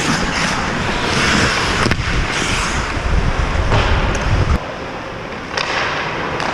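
Ice hockey play on the rink: skate blades scraping and hissing on the ice in bursts, with a few sharp stick or puck clacks. A low rumble of wind and movement on the microphone cuts off about four and a half seconds in.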